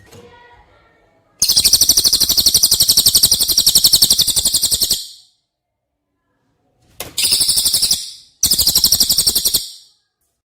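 Songbird giving high, rapid rattling trills in three bursts, one long and two short, on a bird-song tutor recording for contest birds.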